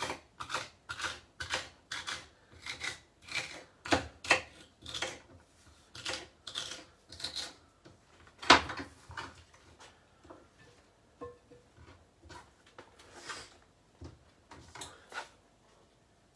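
Kitchen knife chopping a stick of celery on a chopping board: steady cuts about two a second, with one louder knock about eight and a half seconds in, then a few scattered taps.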